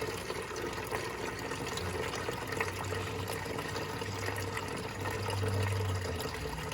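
Radiator coolant, mostly water, running out of the open drain plug at the bottom of the radiator and splashing below in a steady stream.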